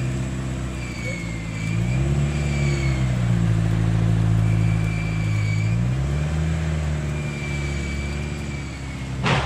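A car engine running, its revs climbing about two seconds in, holding, and dropping back about six seconds in. A single sharp bang near the end.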